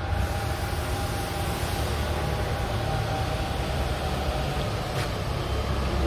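Steady street noise: the low rumble of a motor vehicle's engine running nearby, with a faint steady whine above it.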